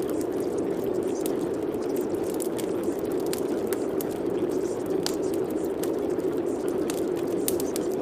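Steady rain: a dense, even wash of falling water with scattered sharp drop taps.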